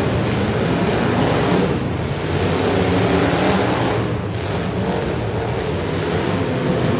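Demolition derby cars' engines running and revving over a steady rushing noise, with the pitch rising and falling as the drivers work the throttle.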